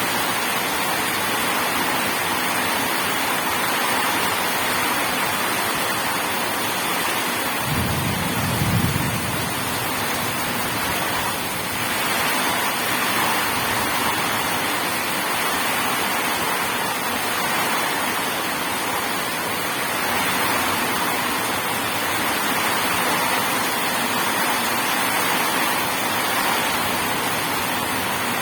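Steady heavy rain, with a short low rumble of thunder about eight seconds in.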